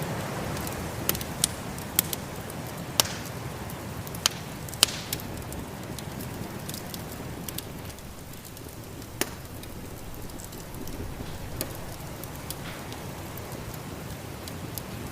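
Wood fire crackling in a fireplace, with several sharp pops in the first five seconds and one more about nine seconds in, over the steady rushing noise of a snowstorm wind.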